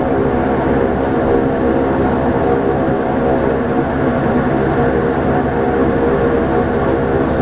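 A Saab 340B's twin turboprop engines and propellers heard from inside the cabin, making a steady drone with a stack of even humming tones.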